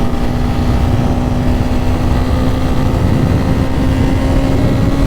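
Honda CB300R's single-cylinder engine running steadily under way, with wind rushing over the microphone; the engine note rises slightly about three seconds in.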